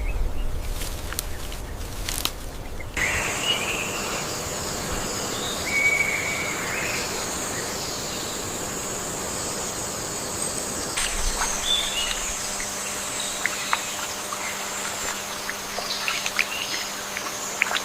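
Outdoor nature ambience: a steady high insect drone with scattered short bird chirps. It opens with a low rumble and a few knocks for the first three seconds.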